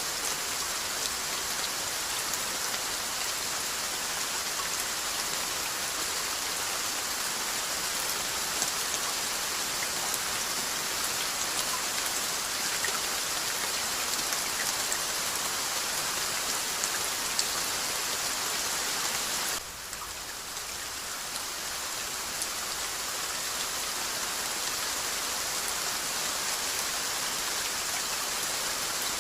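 Steady rainfall, a dense hiss of rain with individual drops ticking through it. About two-thirds of the way through it drops suddenly quieter, then swells back up over a few seconds.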